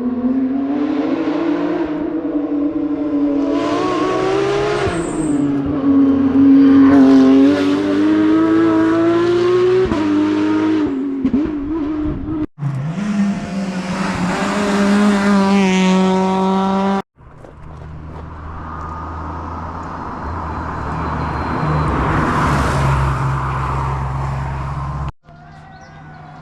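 Rally cars at full throttle on a tarmac stage, engines revving up and dropping at each gear change as they pass one after another. The sound is broken into separate passes by abrupt cuts about halfway through and near the end.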